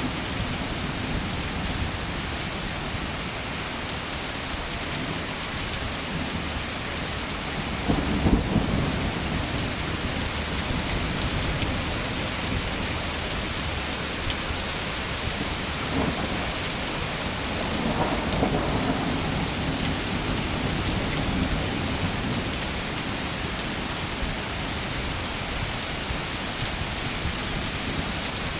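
Steady heavy rain falling, with low rolls of thunder about eight seconds in and again around eighteen seconds.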